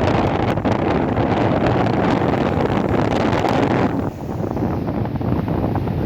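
Wind buffeting the microphone over the steady running noise of a moving train. The noise eases and turns duller for a couple of seconds near the end, then picks up again.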